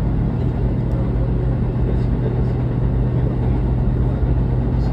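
Train running along the track, heard from inside the cab: a steady rumble of wheels on rail under a steady low hum.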